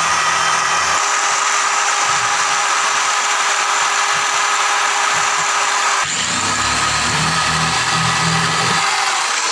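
Handheld electric power tool on sheet metal, its motor running steadily at a constant pitch. The sound changes about six seconds in, as the tool takes a different load, and stops near the end.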